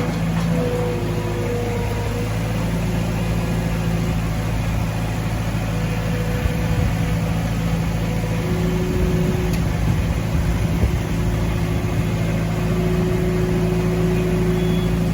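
Engine running at a steady speed, a low even drone with a faint higher tone that comes and goes.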